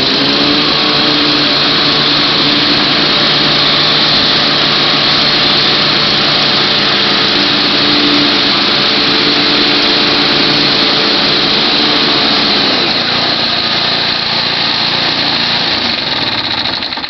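Toro TimeMaster 30-inch self-propelled gas mower's 10-horsepower engine running steadily at speed. Its pitch rises right at the start and drops about thirteen seconds in as the engine slows.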